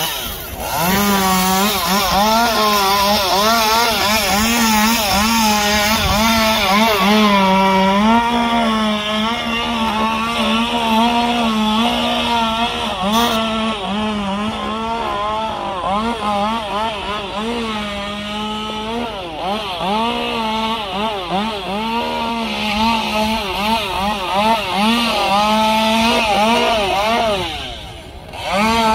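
Gas chainsaw running at high revs while cutting wood, its engine pitch dipping and recovering over and over as the chain loads up in the cut. Near the end the revs drop briefly, then rise again.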